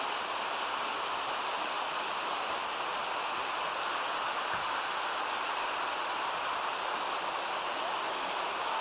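Water of a mountain creek falling over a waterfall cascade, a steady, unbroken rush.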